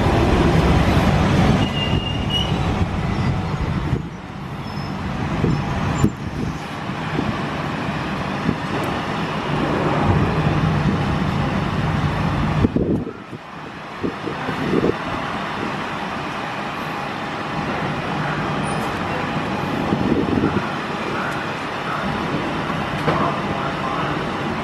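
London Underground 1992 Stock train on the Central Line, a steady rumble and rolling noise, loudest in the first few seconds, with a brief drop in level about halfway through.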